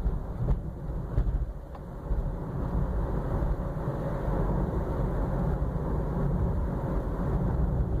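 Honda Civic cabin road noise, a steady low rumble over rough pavement, with a few faint knocks in the first couple of seconds. The knocks are a front-suspension clunk on the right side that has the sound of a blown shock absorber.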